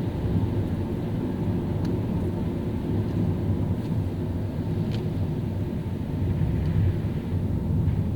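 Car driving on a wet road in the rain: a steady low rumble of tyres and engine, with a few faint ticks.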